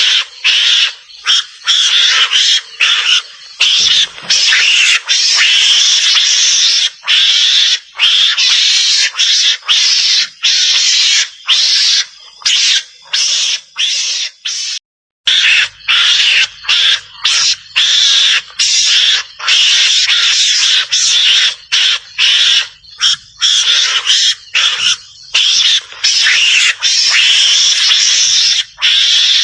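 Javan mongoose (garangan) calls: loud, high-pitched chattering in rapid runs broken by many short pauses, with a brief full silence about halfway through. This is a recorded lure call used to draw mongooses out of cover.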